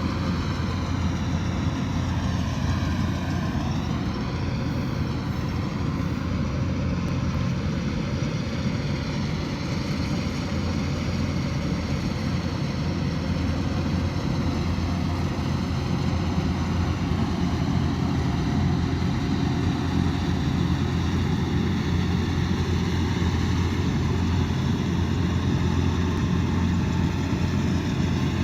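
Kubota DC108X combine harvester's diesel engine and machinery running steadily, a constant low drone that stays at an even level.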